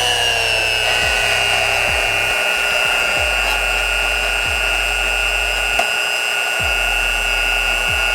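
Handheld electric power tool switched on and run steadily in one long stretch: a high whine over a hiss, dipping slightly in pitch just after it starts.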